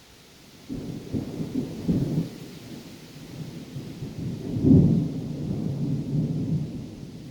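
Thunder rumbling: it breaks in suddenly under a second in and rolls on, with a louder peak about five seconds in before easing off, over a faint steady hiss.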